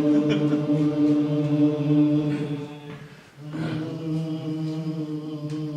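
Choir singing a sustained chord on a vocal warm-up exercise. It releases a little before halfway through, then enters again about half a second later on a new held chord.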